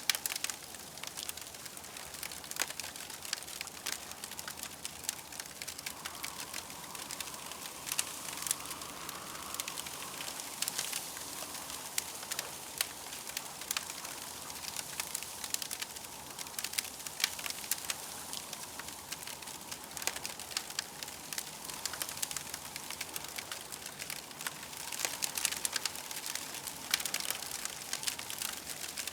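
Campfire crackling: a dense, irregular patter of sharp pops and snaps over a steady hiss. A faint tone in the background swells and fades twice.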